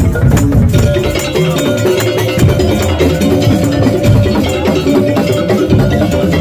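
Madurese tong-tong (ul daul) percussion ensemble playing loudly: wooden and bamboo slit drums and drums in a busy rhythm under sustained pitched melody notes.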